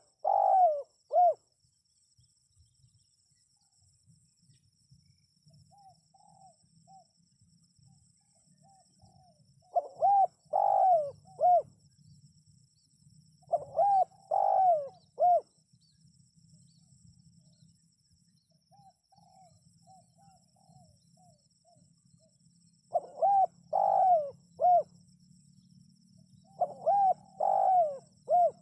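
Spotted dove cooing: loud phrases of three coos repeated five times, several seconds apart, with fainter, quieter coos in the gaps between them.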